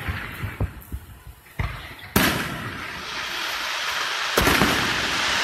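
Aerial fireworks shells bursting: a few sharp booms with echoing tails, the loudest a little over two seconds in and another near the end, with smaller pops in the first second. A steady hiss builds from about three seconds in.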